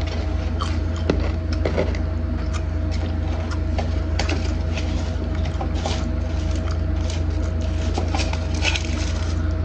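Biting into and chewing crispy fried chicken wings close to the microphone: irregular crunchy clicks and crackles over a steady low hum.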